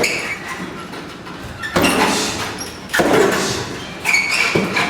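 Strikes from a Kun Khmer fighter landing on training pads: four sudden thudding hits, each with a brief slapping tail. The hits come at uneven spacing, with the last two close together near the end.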